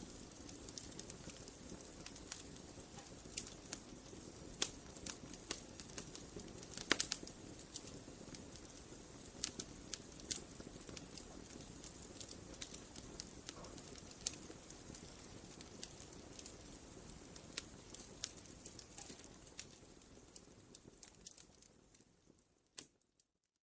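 Wood campfire crackling: irregular sharp pops and snaps over a low steady rustle of flames, with a louder pop about seven seconds in. The sound fades out near the end.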